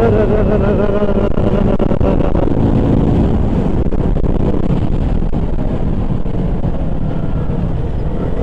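KTM Duke 200's single-cylinder engine running steadily under way, with a dense rush of wind noise on the microphone. A brief wavering tone sits over it in the first second or so.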